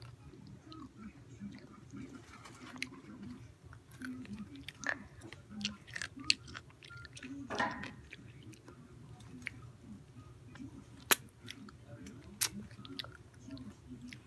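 A person chewing a pickle close to the microphone: wet crunching and mouth clicks, with two sharp snaps in the second half.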